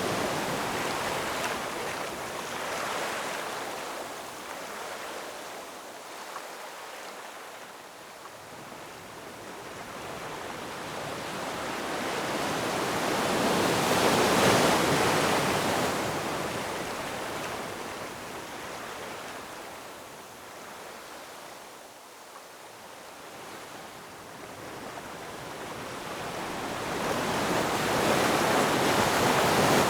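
Ocean surf: waves breaking and washing in, the noise swelling and ebbing slowly, with one wave building to its peak about halfway and another near the end.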